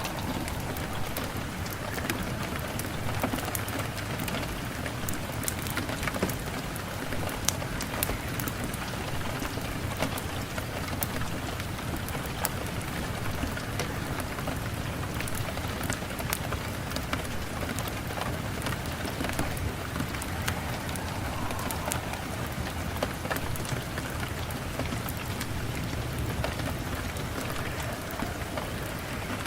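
Steady rain hissing evenly, with frequent sharp crackles and ticks scattered through it from a wood fire burning in a fireplace.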